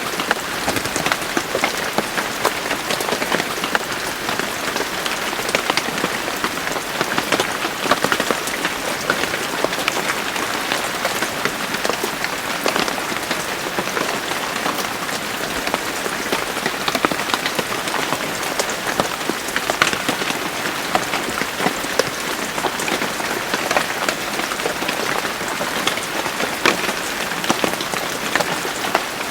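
Steady rain falling, with many close individual drops ticking on a surface.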